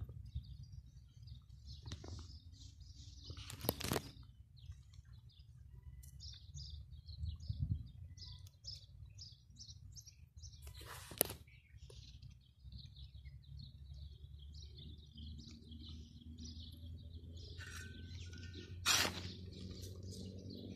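A small bird chirping in quick runs of short, high notes, with three sharp knocks from handling.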